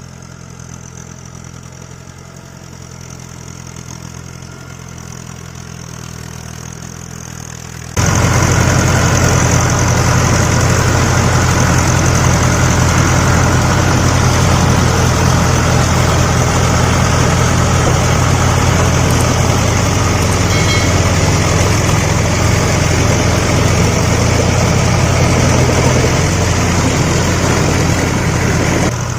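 A vehicle engine idling steadily. About eight seconds in, a much louder engine sound cuts in abruptly and runs steadily, dropping back down near the end.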